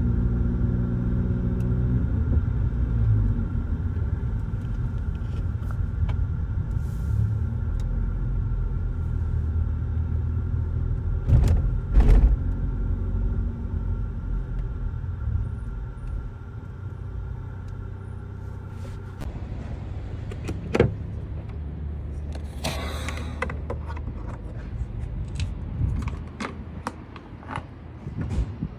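Seat Leon FR's tuned petrol engine heard from inside the cabin, running low and steady as the car creeps along at low speed, with two louder thumps about twelve seconds in. In the second half the engine drone thins out and is followed by scattered clicks and a short rattle.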